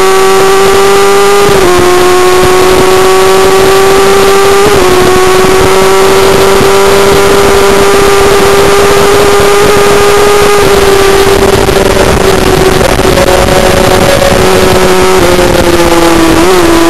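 Racing motorcycle engine heard onboard, held at high revs with its pitch slowly climbing and briefly dipping about a second and a half and about five seconds in, over heavy wind noise on the microphone. The pitch drops a little in the last couple of seconds.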